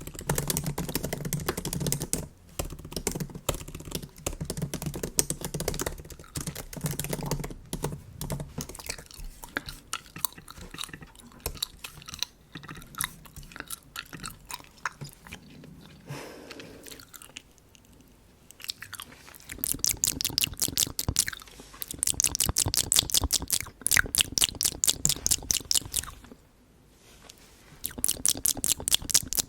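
Bubble gum chewed right at the microphone: wet clicks and smacks in quick succession, quieter for a couple of seconds in the middle, with a brief pause near the end.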